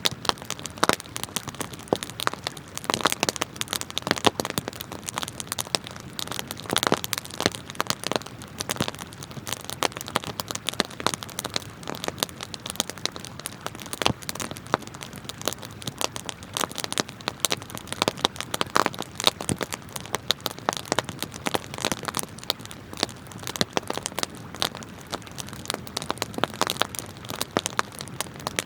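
Wood campfire crackling and popping, with dense irregular snaps throughout and a few louder pops, over a steady rush of flowing river water.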